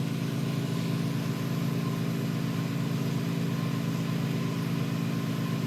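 A steady machine hum with an even hiss over it, holding constant without change.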